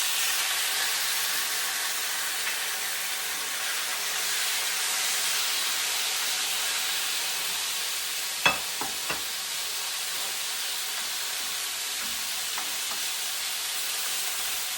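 Seasoned chicken frying in hot oil in a cast iron pan, alongside garlic and carrot: a steady, loud sizzle that has just started as the meat hit the oil. A few sharp clicks come about eight and nine seconds in.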